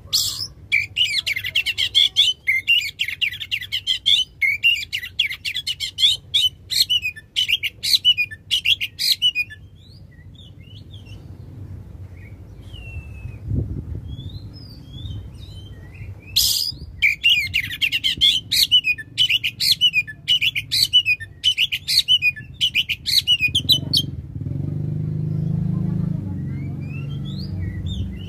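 Oriental magpie-robin (kacer) singing a loud, long, fast song of rapid chirps and whistles in two long bouts, with scattered single notes between them. Near the end the song stops and a low steady hum comes in.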